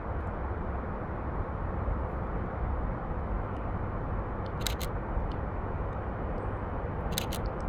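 Canon EOS RP camera shutter firing twice, each time a quick pair of sharp clicks, about four and a half seconds in and again near the end, over a steady low rumble of background noise.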